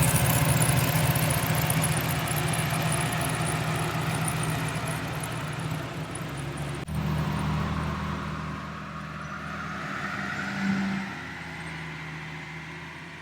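Twin-turbo GMC 1500 pickup engine idling steadily. The sound shifts abruptly about seven seconds in, and after that a faint whine slowly rises in pitch.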